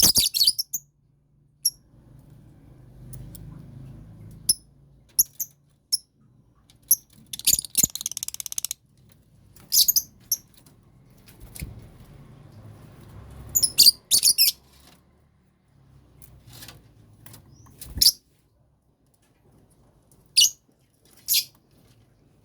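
Lovebirds in a colony cage giving short, shrill high-pitched chirps in scattered bursts, with a rapid chattering run about eight seconds in. A few sharp knocks sound among them, the loudest near the end.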